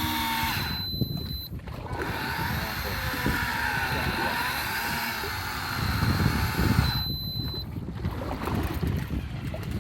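Steady wind and sea noise aboard a fishing boat, with low rumbling from wind buffeting the microphone, strongest about six seconds in.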